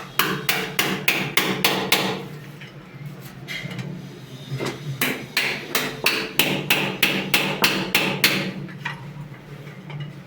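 Rapid hammer blows, about five a second, in two runs: one over the first two seconds and a longer one from about five to eight seconds in.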